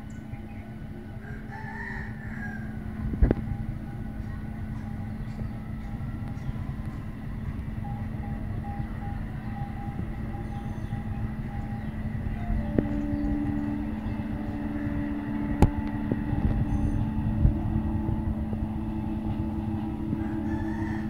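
Train rumble with a steady hum, growing gradually louder, broken by two sharp knocks about 3 and 16 seconds in. A rooster crows briefly about two seconds in.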